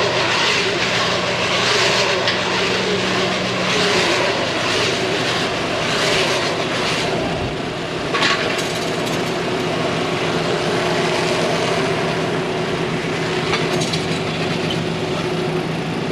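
Fendt tractor engine running steadily under load, with a rushing hiss that swells and fades about every two seconds during the first half.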